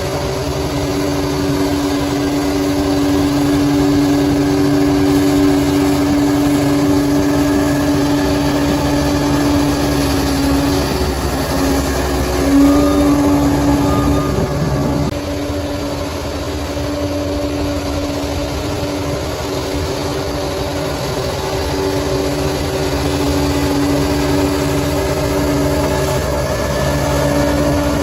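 Bulldozer's diesel engine running steadily, its pitch rising briefly about halfway through and then dropping lower before climbing back.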